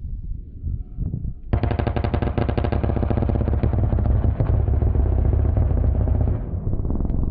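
A-10 Warthog's GAU-8 Avenger 30 mm rotary cannon firing a long burst, a very rapid continuous buzzing rattle. It starts suddenly about a second and a half in, lasts about five seconds and eases off near the end.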